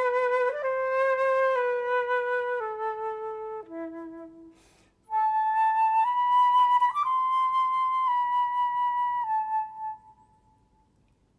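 Unaccompanied flute playing two slow phrases of long held notes, with a short pause between them about four and a half seconds in. The second phrase ends about ten seconds in.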